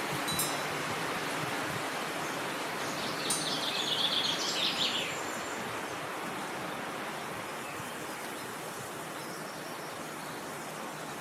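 Steady wind noise, with a songbird singing one short rapid phrase from about three to five seconds in, and a couple of brief chirps at the very start.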